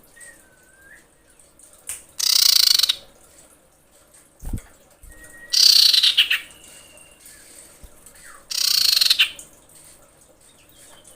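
Female common iora calling in a lure recording: three loud, harsh, rasping calls of under a second each, about three seconds apart, with faint thin whistles between them. These are the calls of a female in breeding condition, used to draw in males. A short low thump falls between the first and second calls.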